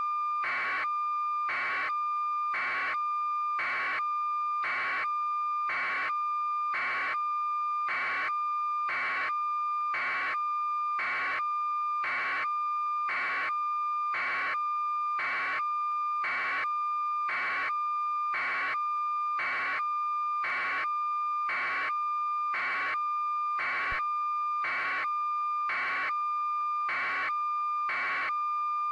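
Electronic alarm beeping in a steady, unbroken rhythm of about three beeps every two seconds, over a continuous high steady tone.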